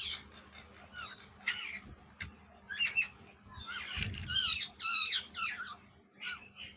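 Parrot giving a rapid series of short, harsh squawks, some with a rising-then-falling pitch, spread through the whole stretch with brief pauses.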